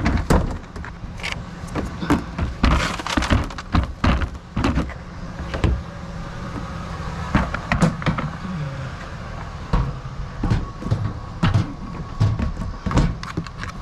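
Repeated knocks, thumps and scrapes of salvaged curbside items being handled and loaded into a truck, over a steady low engine hum.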